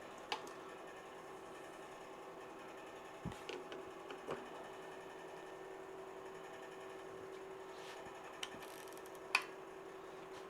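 A few sharp metal clinks of hand tools on the cylinder-head bolts of an Allis-Chalmers C engine as they are run down snug, the loudest near the end. A steady faint hum runs underneath.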